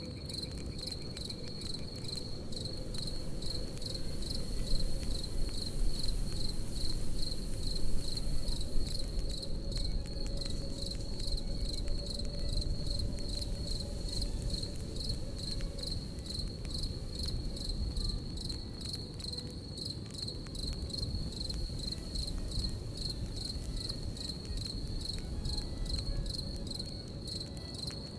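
Crickets chirping in a steady, fast pulsing trill over a crackling campfire. Frequent small pops and crackles sound throughout, over a low rumble.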